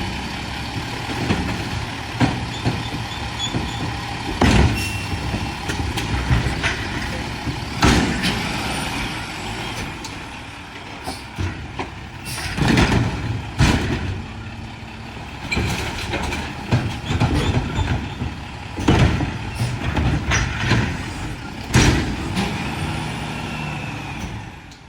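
Mack LR garbage truck with a McNeilus side-loader body running, its diesel engine rumbling steadily, with about a dozen short, loud bursts of air hissing or clanking along the way. The sound fades out at the very end.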